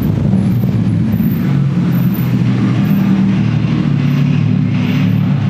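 Car engine running at low revs with a deep, steady exhaust note, a car rolling slowly past.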